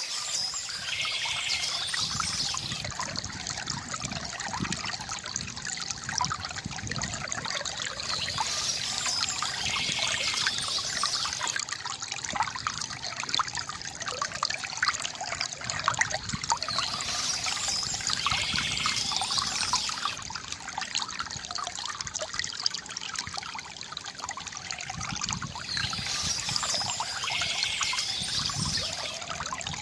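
Water trickling and splashing steadily from a bamboo fountain, with a brighter, busier patch returning about every eight seconds.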